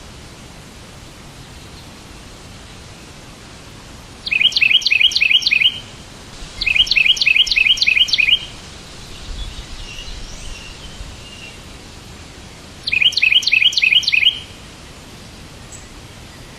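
A bird repeatedly singing short bursts of rapid, evenly spaced high chirps, about four or five notes a second. There are three bursts of one to two seconds each, with softer chirps between the second and third, over a steady background hiss.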